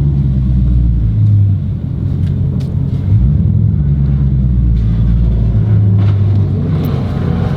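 Dodge Scat Pack's 6.4-litre HEMI V8 rumbling at low speed, its engine note shifting a few times.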